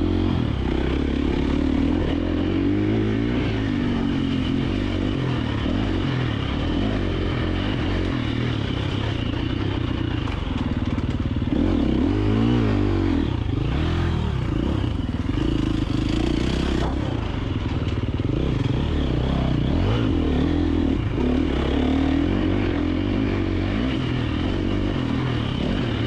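KTM 350 XC-F four-stroke single-cylinder dirt bike engine being ridden hard, revving up and down as the throttle is worked over rough trail, with some clatter from the bike.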